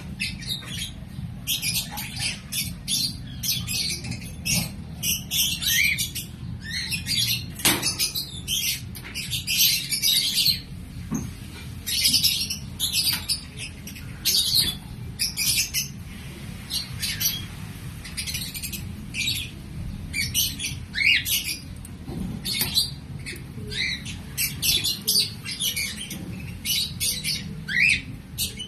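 Pet lovebirds chattering, a continual run of short, shrill chirps and squawks with quick upward and downward pitch sweeps.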